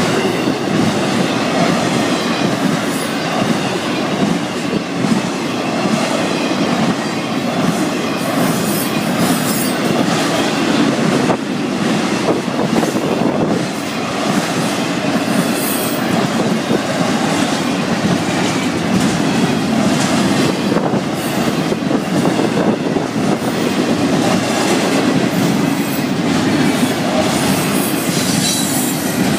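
Florida East Coast Railway freight train's intermodal cars rolling past close by: a loud, steady rumble of steel wheels on rail with clickety-clack over the rail joints and brief high wheel squeals now and then.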